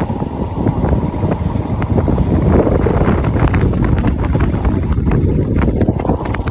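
Strong wind buffeting the microphone, a loud steady low rumble with scattered small knocks.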